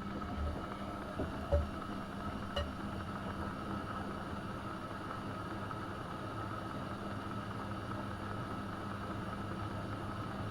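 AEG Öko-Lavamat 72520 washing machine running, a steady motor hum with a few soft low thumps and clicks in the first few seconds, then even.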